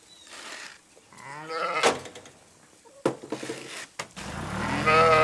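Bleating farm animal, sheep or goat kind, calling twice: a shorter wavering bleat about a second in, then a louder, longer bleat near the end.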